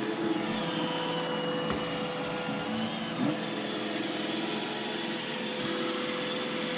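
iRobot Roomba E6 robot vacuum running, a steady motor hum with a thin high whine over it.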